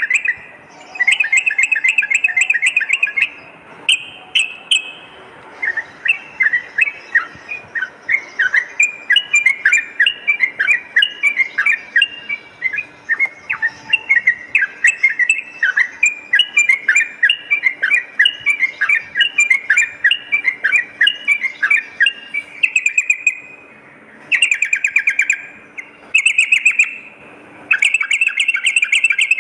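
Yellow-vented bulbul (trucukan) song. Short bursts of fast trilled chattering come at the start and again near the end. In the middle is a long run of quick repeated chirping notes.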